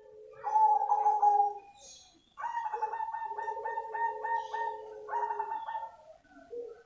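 Black zebra dove (perkutut cemani) cooing: a short opening phrase, then from about two and a half seconds a run of quick repeated coo notes at about three a second, ending in a longer held note.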